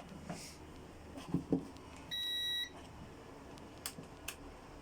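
A single electronic beep, about half a second long, from the GPS bait boat's electronics, which are not working after the boat took on water. A few faint clicks follow later.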